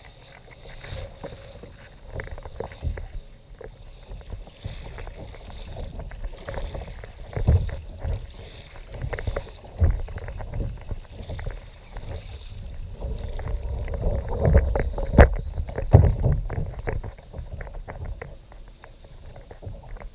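Kayak on the water: irregular knocks and water noise against the hull, with the loudest knocks about a third of the way in and again about three-quarters through.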